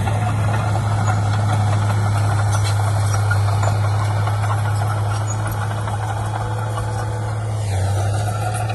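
Heavy diesel engine of earthmoving machinery running steadily with a strong low hum. Near the end its pitch drops slightly.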